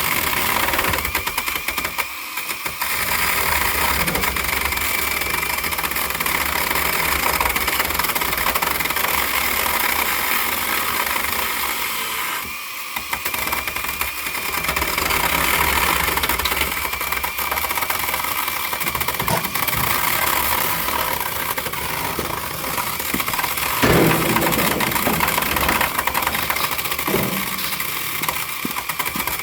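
An engine running steadily, with two brief dips in level about 2 and 12 seconds in.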